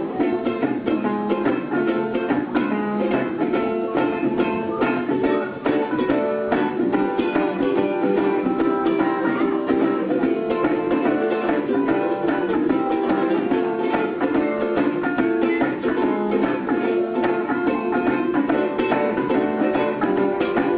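Instrumental ukulele solo over strummed chords in an upbeat old-time song, with quick picked melody notes and no singing.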